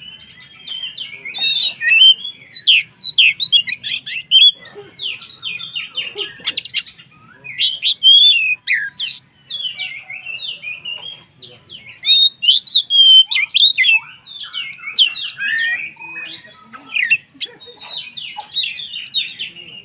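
Oriental magpie-robin (kacer) singing a vigorous, varied song of rapid chirps, whistled glides and harsh notes, in loud phrases with brief lulls between.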